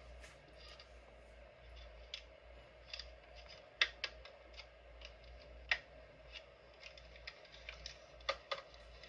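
Irregular light clicks and taps, a dozen or so at uneven spacing with a few louder ones, over a faint steady hum.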